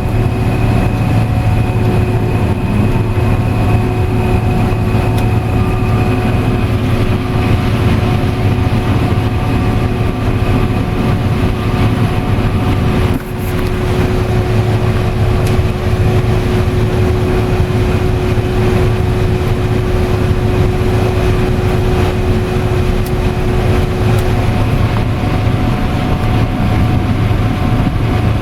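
Combine harvester running steadily while harvesting corn, heard from inside the cab: a loud, even drone from the engine and threshing machinery with several steady whining tones over it. The noise dips briefly about halfway through.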